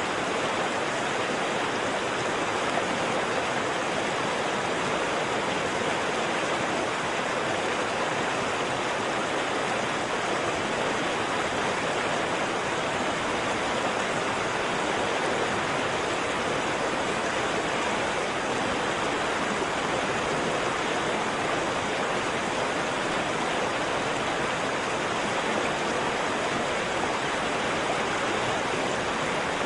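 Waterfall: water falling and rushing in a steady, even roar without change.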